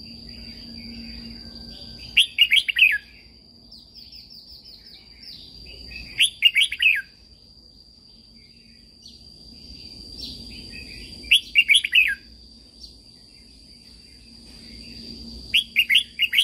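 Red-whiskered bulbul singing: four short phrases of quick, warbling notes, one every four to five seconds, with softer chattering between them, over a steady high-pitched whine.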